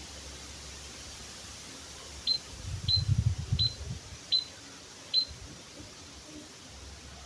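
Emprit kaji, a small munia, giving five short, high, sharp calls at intervals of well under a second, each dropping slightly in pitch, over a steady hiss. A low rumble, louder than the calls, comes with the second and third calls.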